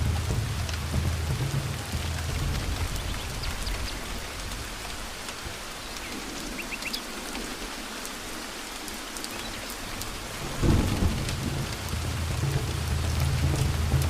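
Steady heavy rain with rolling thunder: the low rumble fades away in the middle, then a sudden loud thunderclap comes about ten and a half seconds in and the rumble picks up again. A few faint, short bird chirps sound through the rain near the middle.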